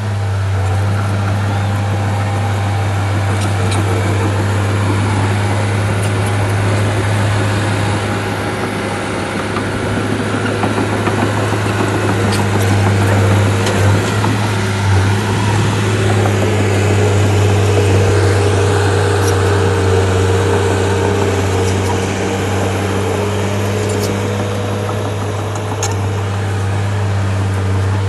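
Heavy diesel engine running steadily, a loud low drone with a few faint knocks.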